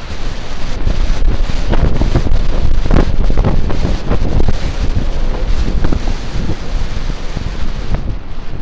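Wind buffeting the microphone while riding a bicycle, with frequent short knocks and rattles throughout.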